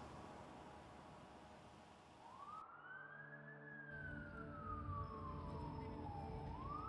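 Emergency vehicle siren wailing. About two seconds in, a tone rises, then falls slowly for some three seconds and starts to rise again near the end, over a steady low hum.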